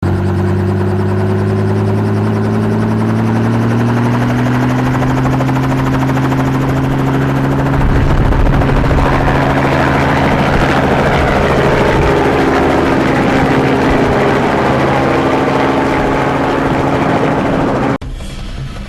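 Helicopter running, with a steady engine and rotor drone whose pitch rises slightly over the first few seconds. It gets louder about eight seconds in and cuts off abruptly near the end.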